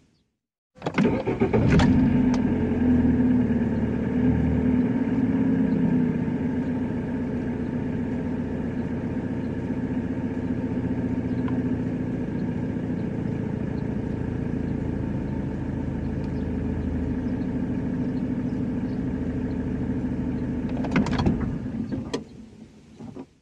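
A car engine starts about a second in and then idles steadily with an even hum. A couple of knocks come near the end before it cuts out.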